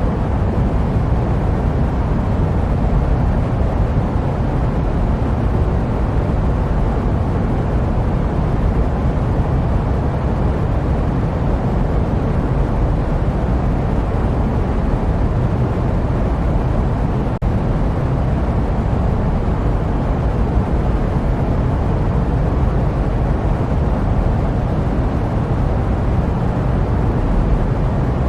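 Steady jet-aircraft white noise: an even, deep rushing rumble with no changes, briefly dipping once about two-thirds of the way through.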